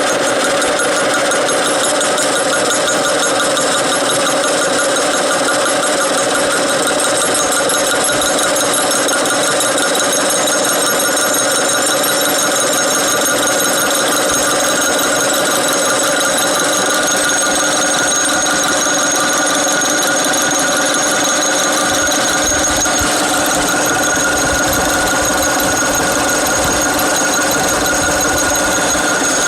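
A power tool running steadily while working a steel sprocket blank: a continuous loud machine noise with several steady whining tones and no pauses.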